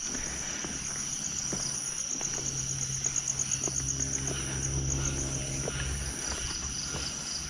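Night insects, crickets, chirping: a steady high trill with a faster pulsing chirp over it for a few seconds. A low hum rises underneath in the middle and fades again.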